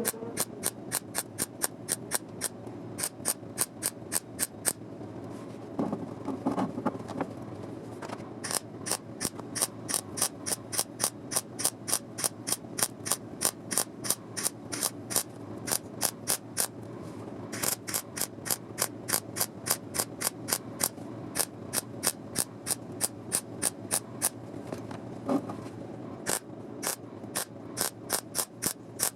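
A hand tool clicking in a steady rhythm, about two to three sharp metallic clicks a second, with a few short pauses.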